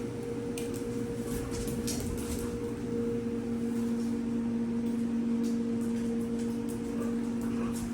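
A steady low hum that holds its pitch, with a few faint ticks over it.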